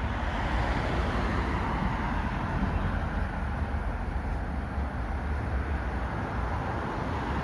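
Steady city street background noise: a continuous low traffic rumble with no distinct events.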